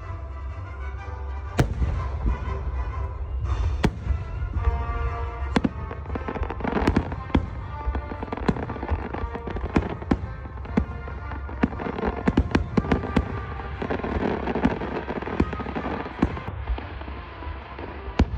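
Fireworks going off: a run of sharp bangs and crackles, coming thickest in a rapid cluster about two-thirds of the way through, with music playing underneath.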